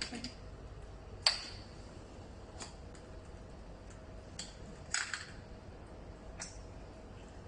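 Sharp, irregular clinks of metal against glass as a glass French press is handled, its stainless steel plunger and lid knocking on the carafe. The loudest clink comes about a second in and rings briefly.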